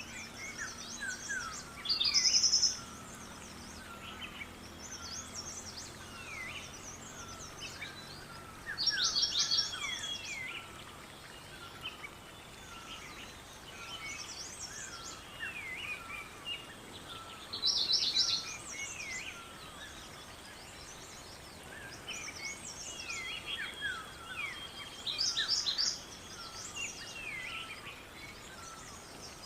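Several songbirds singing at once: a steady chorus of chirps and short whistled glides. One bird's loud, rapid trill stands out four times, about every eight seconds.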